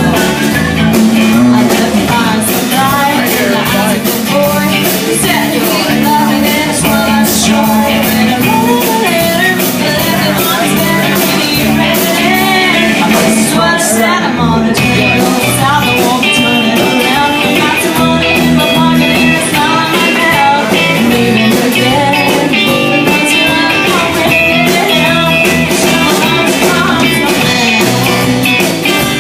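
A live band playing a blues-rock song: guitar and a steady beat, with a woman singing over it.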